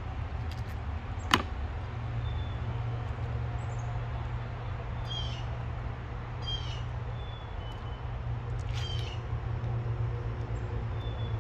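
Birds calling outdoors: several short, high chirps and thin whistles over a steady low hum, with one sharp knock about a second in.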